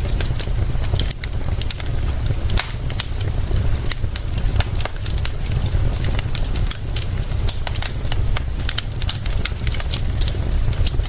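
Wood fire crackling, with frequent sharp pops and snaps, over a steady low rumble.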